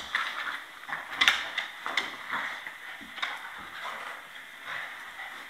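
A few scattered clicks and knocks over low room hiss, the clearest about a second in, again at two seconds and just after three.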